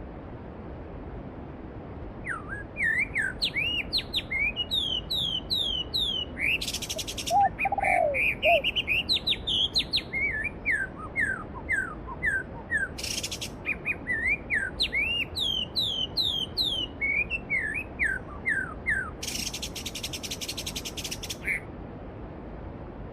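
Songbirds singing, a long run of quick whistled chirps that sweep up and down, with a lower call about eight seconds in and a few short buzzy trills. Under them a mountain stream rushes steadily.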